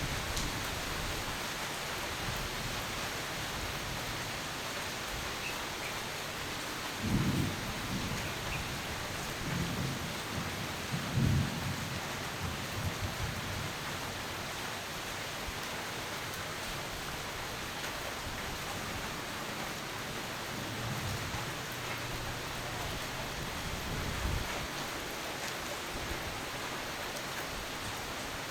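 Steady rain falling, a constant hiss, with low rolls of thunder rumbling through it, the strongest about 7 and 11 seconds in and fainter ones later.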